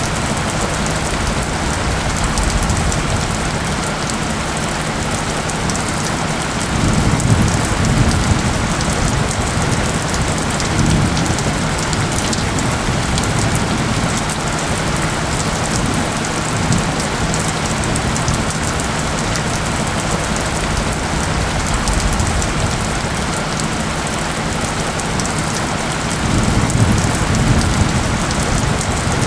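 Steady rain falling and pattering, with a faint low steady tone beneath it. A low rumble swells up twice, about a quarter of the way in and again near the end.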